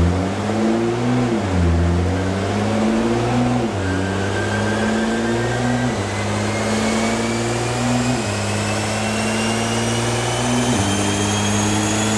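Nissan GT-R R35's twin-turbo V6 running hard under load on an all-wheel-drive dyno, its note stepping down in pitch at each gear change. From about four seconds in, a high whine climbs steadily in pitch as the wheels and rollers gain speed.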